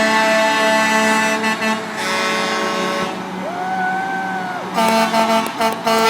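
Truck air horns sounding in long held blasts, broken about halfway through by a shorter tone that rises and falls before the held blasts return.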